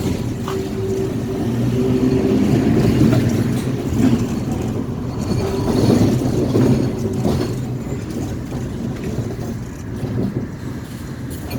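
Perley Thomas streetcar running along the St. Charles line, heard from on board: a steady hum from the motors and gearing, with knocks and rattles from the wheels on the rails.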